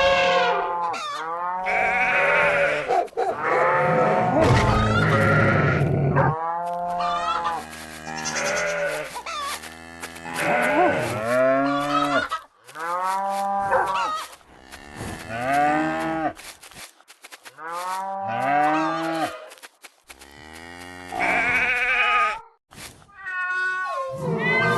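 Farm animals calling, one call after another, each call rising and then falling in pitch, over a low steady hum.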